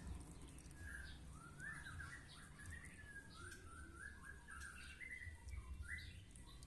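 Birds chirping faintly in the background: a continuous run of short, high chirps.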